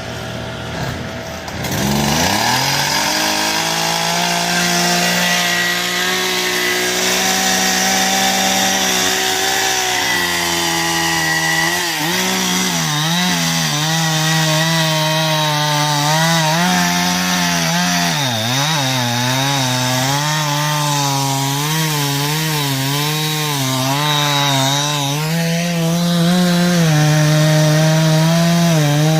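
Chainsaw revving up about two seconds in, then running at high speed, its pitch dipping and recovering again and again as it bites into wood.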